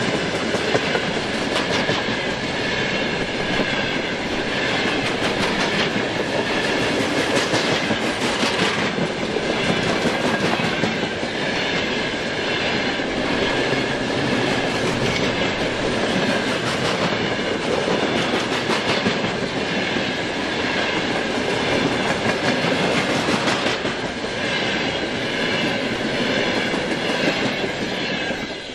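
Train wagons rolling past close by behind a 2TE10U diesel locomotive, their wheels clattering steadily over the rail joints.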